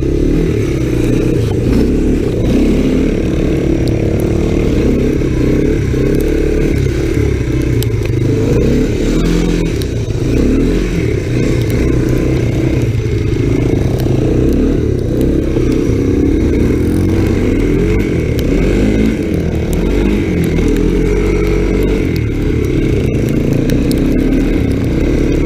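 Single-cylinder four-stroke engine of a small Honda off-road machine running hard as it is ridden, its revs rising and falling.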